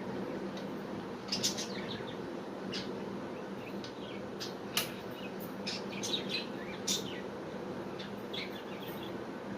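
Budgerigars chirping in short, scattered high calls over a steady low hum.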